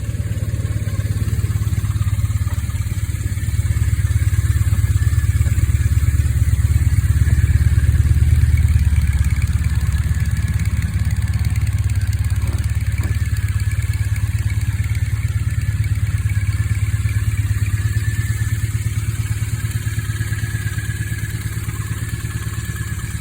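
2009 Triumph Thruxton 900's air-cooled parallel-twin engine idling steadily, a little louder for a few seconds in the first half.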